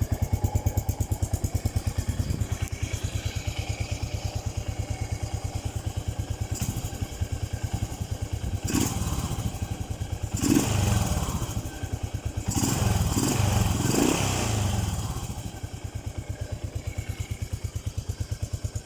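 Yamaha SR500's single-cylinder four-stroke engine running through a Cabton-style muffler. It idles with an even pulse, is revved up several times in the middle, then settles back to idle.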